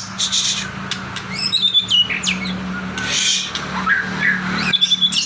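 Caged murai songbird singing varied whistled and chirping phrases, with quick rising and falling notes, over a steady low hum.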